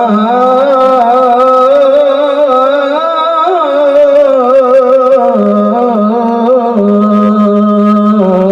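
A man singing a long, wavering melismatic sholawat line over a steady held drone note.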